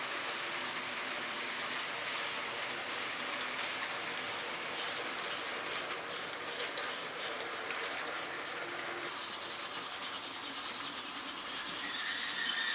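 H0-scale model trains running on the layout's track: a steady rolling hiss and rattle of small metal wheels on rails. Near the end a thin high-pitched squeal rises over it, like wheel flanges squealing in a curve.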